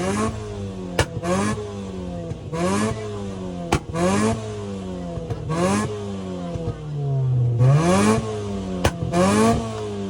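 A turbocharged car engine revved hard and repeatedly, about seven quick blips, the pitch shooting up and then falling away each time. Each blip ends in a burst of hiss from the blow-off valve as the throttle snaps shut, and a few sharp cracks come between the revs.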